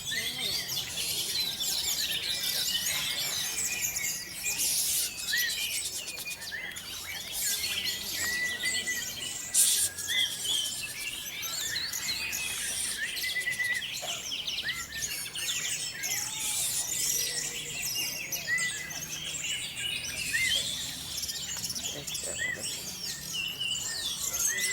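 Many songbirds chirping and singing at once, a dense overlapping chorus of short high chirps and whistles, with a single sharp knock about ten seconds in.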